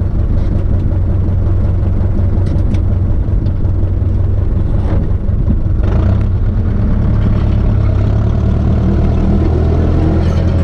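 Turbocharged Ursus C-360 tractor's four-cylinder diesel engine running steadily under load while pulling a field roller, with a couple of brief clicks about halfway through.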